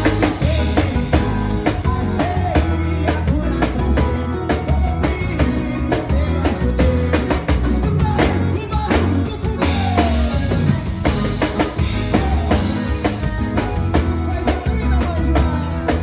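Drum kit played along with a recorded song: a steady stream of drum and cymbal hits over a heavy bass line and melody.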